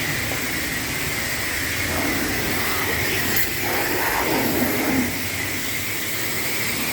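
Pressure washer spraying a steady stream of water onto a pickup truck's body for the final rinse. A constant high whine runs under the hiss of the spray.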